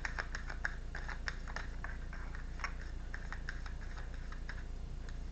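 Tarot cards being shuffled and handled: a run of light card clicks and flicks, thick at first and thinning out after a second or two, over a steady low hum.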